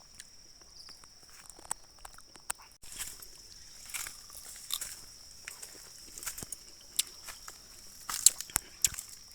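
Steady high-pitched insect trill, typical of crickets, with irregular crunching and rustling clicks over it. The clicks come thickest near the end.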